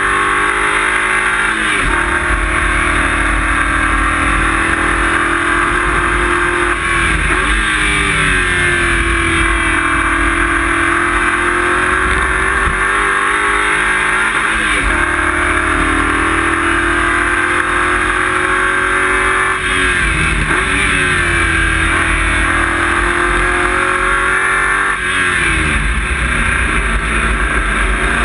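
Race car engine running hard and loud, heard from inside the caged cabin. Its pitch dips and climbs back up several times, at about 2, 7, 15, 20 and 25 seconds.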